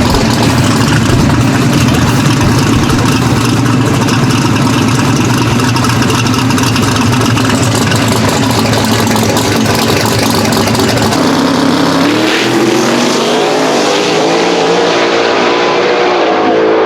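Drag race car engine running hard at high revs, loud and steady. About twelve seconds in, its pitch climbs and steps through rising runs as the car accelerates.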